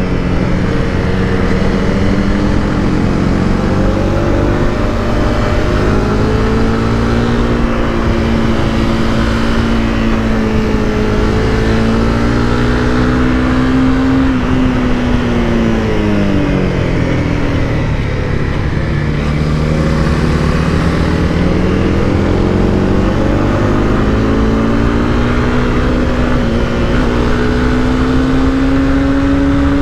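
Honda CBR300R's single-cylinder engine running under way, its revs rising and falling. The pitch sinks low about halfway through as the revs drop, then climbs again.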